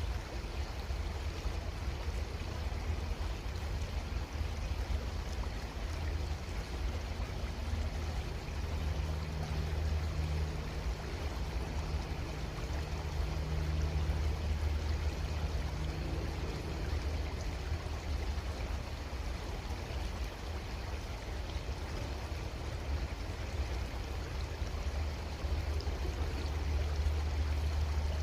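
Creek water running steadily, with a constant low rumble underneath. A faint low hum comes in about eight seconds in and fades out around seventeen seconds.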